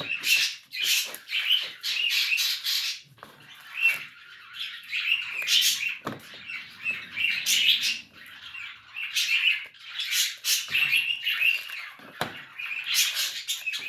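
Small birds chirping and tweeting over and over, mixed with the tearing and rustling of grapefruit rind being peeled by hand; two sharp knocks about six and twelve seconds in.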